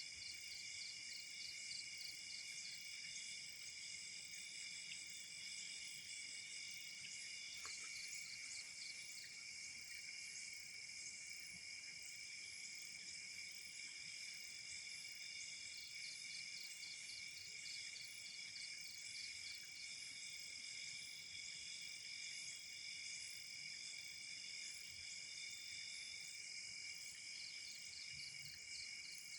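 Night insect chorus: several crickets trilling steadily at different high pitches, one with a quick pulsing chirp of about four a second that drops out and returns.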